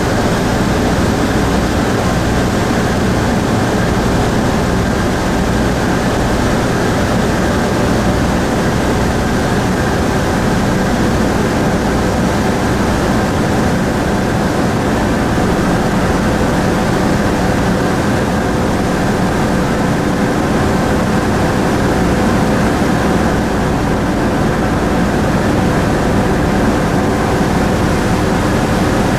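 A car ferry's engines droning on board while under way: a loud, steady rumble with an even hum running through it.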